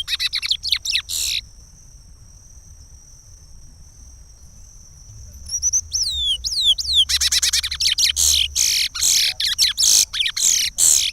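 Curió (chestnut-bellied seed finch) singing the Pará regional song in quick, falling whistled notes. It stops after about a second and a half, then comes back after a pause of about four seconds in a dense, loud run of phrases.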